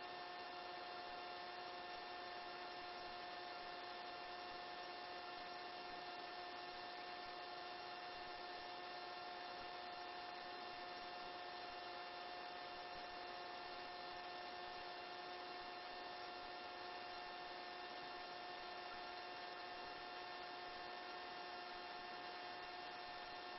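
Faint, steady electrical hum with several fixed tones that stays unchanged throughout. It is the open line of a helicopter headset intercom between transmissions, with no voices on it.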